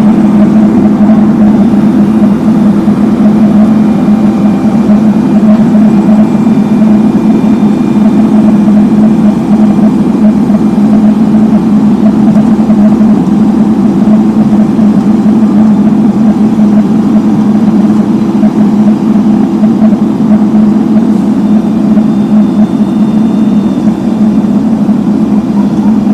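Heavy road-works machinery laying asphalt, its engine running as a loud, steady drone.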